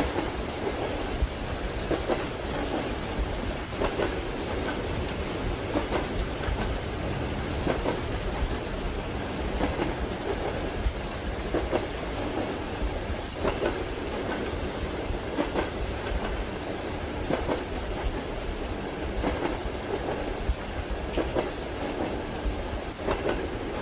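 Steady rain mixed with the low rumble of a moving train carriage, with faint knocks of the wheels every couple of seconds.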